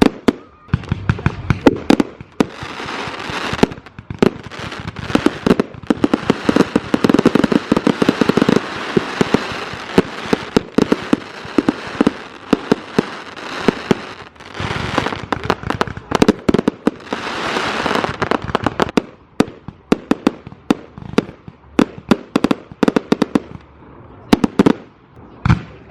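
Fireworks going off: a rapid string of sharp bangs and crackles that thickens into dense crackling twice.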